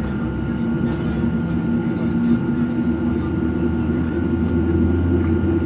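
Cabin noise of a Boeing 737-900ER with its CFM56-7B engines idling before takeoff: a steady hum with several held tones that grows slightly louder.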